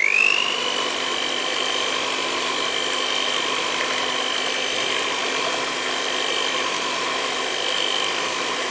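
A small electric motor spinning up quickly, its whine rising for about half a second, then running at steady speed with a high, even whine over a rushing hum.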